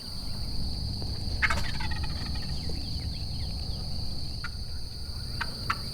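Osceola wild turkey gobbler gobbling once, about a second and a half in, a rolling call falling in pitch, over a steady high insect trill. A few short, sharp clicks follow near the end.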